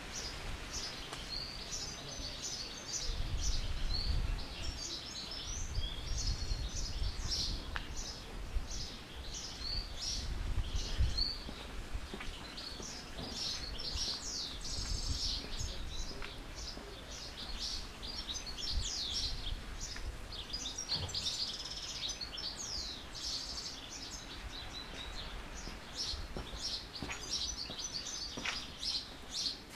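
Many small birds chirping and twittering in quick, overlapping calls throughout. A low rumble sits beneath them from about three to twelve seconds in.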